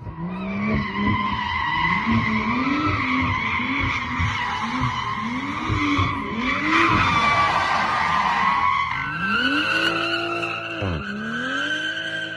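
BMW M340i's turbocharged straight-six revving up and down while its rear tyres squeal through a drift. A steady high squeal runs throughout and drops in pitch about nine seconds in. The engine note rises and falls several times, then climbs and holds, dipping once briefly near the end.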